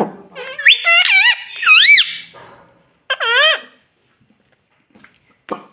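Pet ringneck parrot making high-pitched squeaky calls: a quick run of wavering, up-and-down notes about a second in, then one more squeak about three seconds in.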